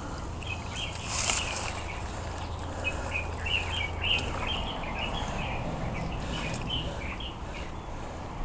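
Small birds chirping in quick runs of short notes, with a brief hissing noise about a second in, over a steady low rumble.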